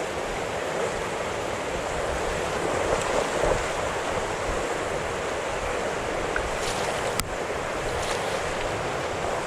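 Steady rush of river water flowing over stones, with one sharp click about seven seconds in.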